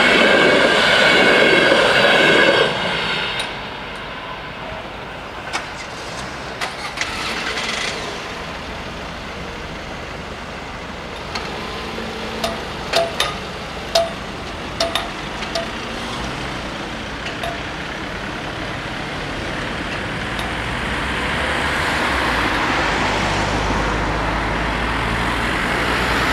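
The last coaches of an electric-hauled passenger train rolling over the level crossing, loud for the first three seconds and then gone. Scattered sharp clicks and knocks follow while the crossing barriers go up, and road traffic, cars and a bus, then moves off and drives across, growing louder toward the end.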